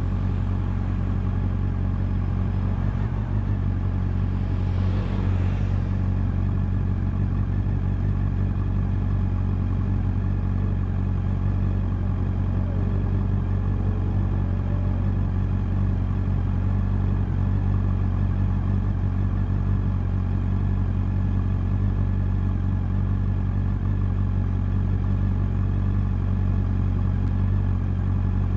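Honda CB400 Super Four's 399 cc inline-four engine and exhaust running at a steady, even note, holding the same pitch without revving up or down.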